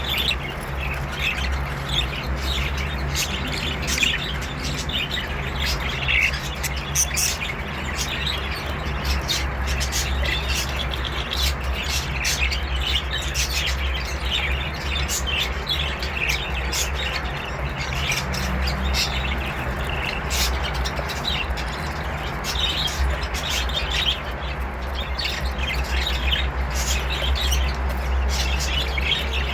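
Budgerigars chattering, with rapid chirps and squawks going on throughout, over a steady low hum.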